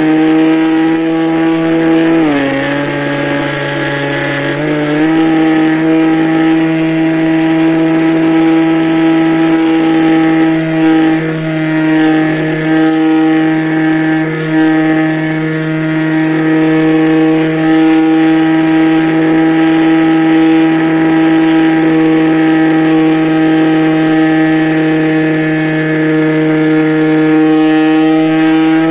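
Radio-controlled model airplane's small engine running at a steady high speed, its pitch dropping for a few seconds about two seconds in as the throttle eases, then rising back to the same note.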